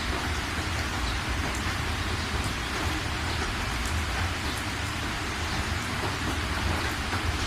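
Steady heavy rain falling on a surface, a dense even patter with scattered individual drop ticks over a low continuous rumble.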